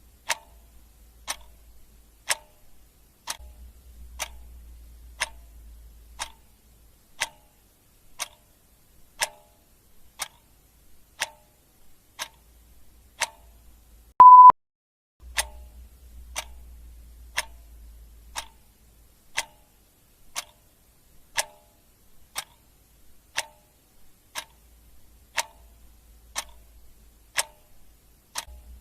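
Clock ticking steadily, about one tick a second, with a short, loud single-pitch beep about halfway through.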